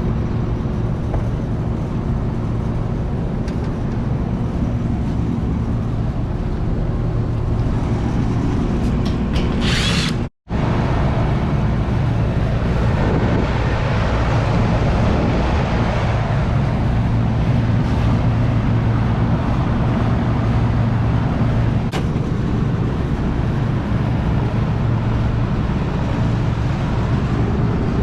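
Air-conditioning unit running with a steady low mechanical hum while its first-stage compressor is not running. About ten seconds in there is a brief hiss, then the sound cuts out for an instant.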